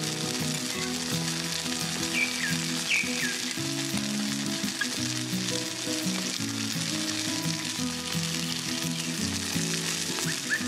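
Oil sizzling steadily as sliced onions and green chillies fry in a tiny aluminium pot, stirred with a small spoon.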